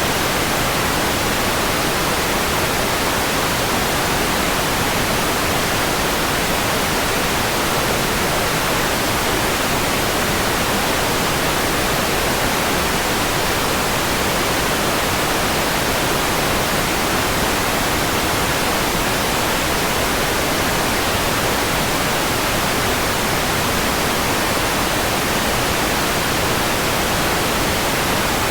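Steady, unchanging white noise: an even hiss with no other sounds and no change in level.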